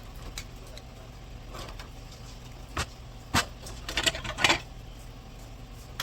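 Hard knocks and a short burst of rattling clatter about three to four and a half seconds in, as the unbolted radiator is worked loose and lifted out of the car.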